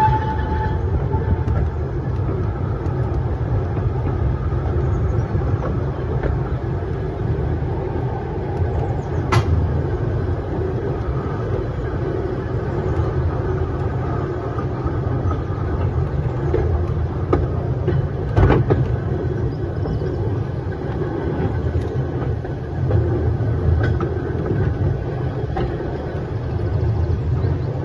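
Narrow-gauge train running along the track, heard from the rear of the train: a steady rumble of wheels on rails, with two sharp knocks about nine and eighteen seconds in.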